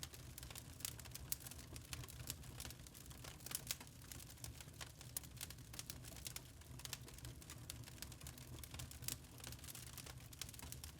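Wood fire crackling in a fireplace: irregular sharp pops and snaps, several a second, over a soft low rumble of the flames.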